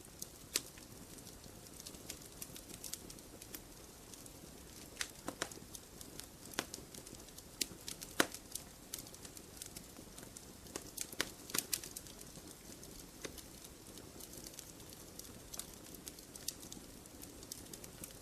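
Wood campfire crackling: irregular sharp pops and snaps over a soft steady hiss, with a few louder pops about eight seconds in and again around eleven to twelve seconds in.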